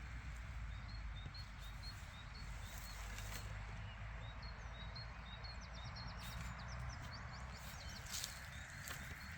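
Small bird chirping repeatedly, short high notes about twice a second, with a quick trill around the middle; a steady low rumble runs underneath.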